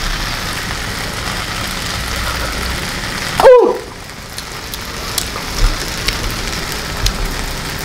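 Fried rice sizzling steadily in a wok over the flame, left to dry out a little. About halfway through there is one short voiced 'mm'.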